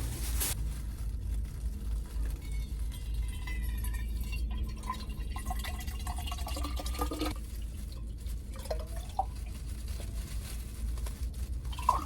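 Liquid pouring into a container, with a pitch that shifts as it fills, over a steady low hum.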